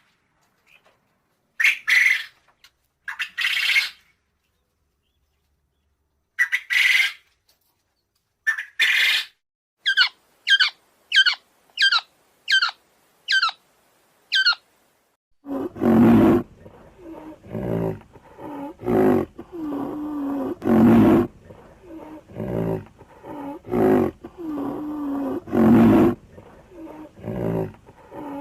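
Animal sound effects. First come several short, sharp bird calls and a quick run of about seven falling chirps. About halfway in, a large animal takes over with deep roaring calls that swell and fade every second or two.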